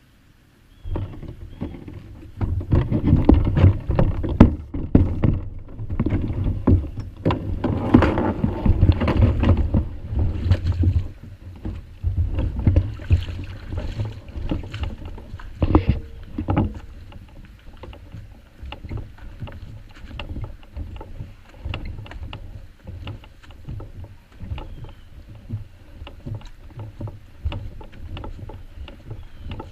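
Canoe being paddled on choppy water: splashing, paddle strokes and knocks over a low wind rumble on the microphone. It starts suddenly about a second in and is loudest for the first ten seconds or so, then calmer.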